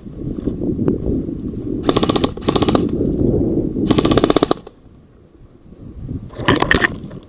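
Airsoft gun firing rapid full-auto bursts: two short bursts about two seconds in, a longer one around four seconds, and another short burst near the end.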